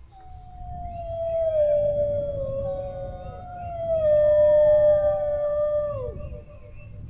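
Dog howling: one long howl that starts high, slides slowly down in pitch and holds, with a second, higher howl overlapping it, both falling away about six seconds in.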